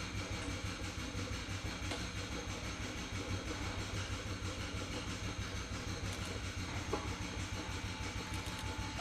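Machinery running steadily with a deep hum and a hiss across the range, with a light click about seven seconds in.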